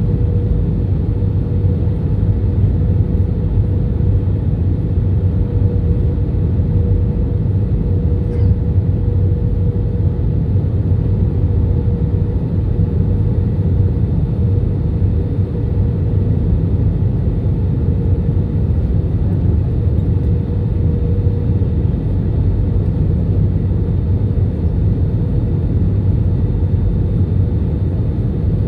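Airliner cabin noise during the flight in to land: a steady low rumble of engines and airflow, with a thin constant hum held over it.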